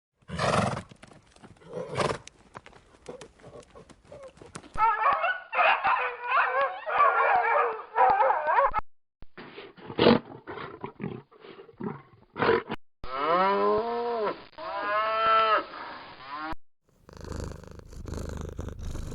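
A run of short animal-sound clips: scattered clicks and knocks, a stretch of many quick wavering calls, then two drawn-out calls that fall in pitch, followed by a noisy rumbling stretch.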